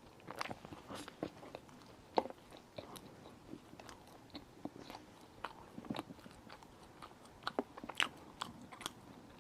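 Close-miked chewing and wet mouth sounds of someone eating a chocolate molten lava cake: irregular soft smacks and clicks with no steady rhythm.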